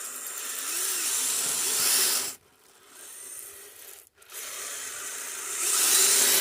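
Small electric RC vehicle driving through snow and gravel: a faint electric motor whine under a harsh scraping of tracks or tyres. It comes in two throttle bursts, the first cutting off sharply about two seconds in and the second building up near the end.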